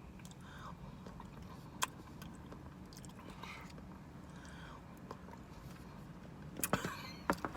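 Quiet eating sounds of a person chewing a mouthful of Blizzard ice cream with chocolate chunks, with soft mouth noises and a sharp click about two seconds in.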